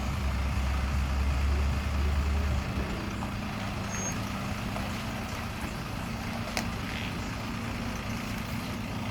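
Nearby engine idling steadily: a deep low hum that drops away about two and a half seconds in, with a lighter steady hum carrying on. A single faint click comes about six and a half seconds in.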